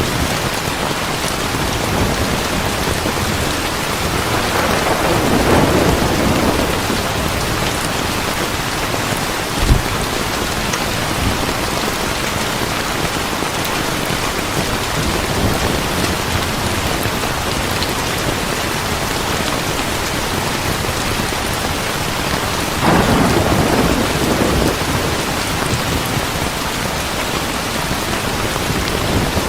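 Heavy rain falling in a steady hiss, with thunder rumbling twice, swelling about four seconds in and again near the end. A single sharp pop sounds about ten seconds in.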